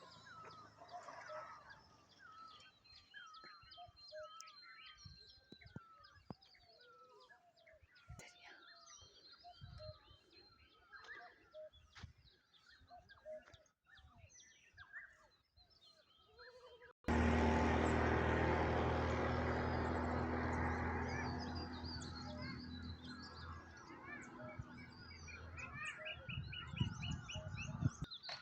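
Many small birds chirping and twittering, with short quick calls overlapping. About 17 s in, a much louder rumbling noise with a low hum comes in suddenly and slowly fades, with the birds still calling over it and a fast trill of repeated notes near the end.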